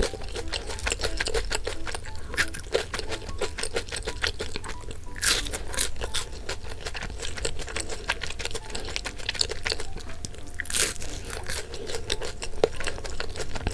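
Close-miked eating of bungeoppang, the fish-shaped pastry: a dense run of small crunchy chewing and crackling sounds, with two louder crackles about five and eleven seconds in.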